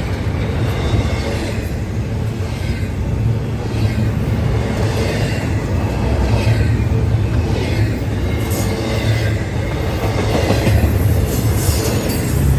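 Intermodal freight train rolling past at speed: a loud, steady rumble of steel wheels on rail, swelling and easing every second or two.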